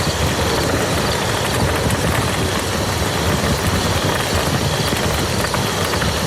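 Steady rain falling on a muddy field: a dense, even hiss with many fine drop ticks.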